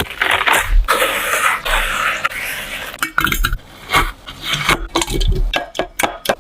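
Kitchen utensils and dishes: a stretch of scraping and rustling, then from about three seconds in a quick run of sharp clinks and taps.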